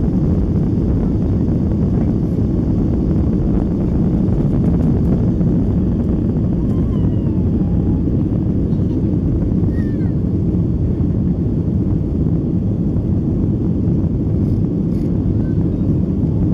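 Boeing 737-800's CFM56-7B jet engines and rushing airflow heard inside the cabin as a loud, steady low rumble.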